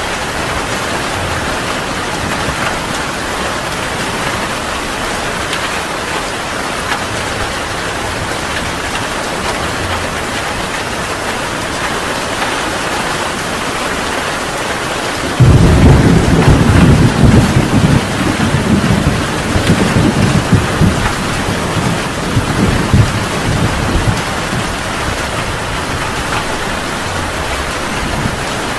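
Heavy rain falling steadily, with a clap of thunder about halfway through that breaks in suddenly and rumbles on for several seconds before fading back under the rain.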